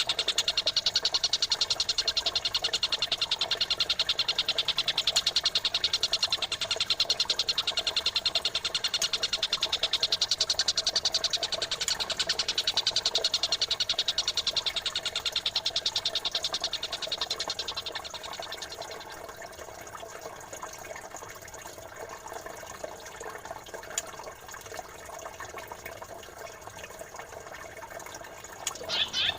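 Fast, tightly repeated chattering birdsong of a songbird masteran mix of pied triller and Eurasian tree sparrow calls, over babbling running water. About 18 seconds in the chatter drops away and becomes quieter, leaving mostly the water with fainter calls.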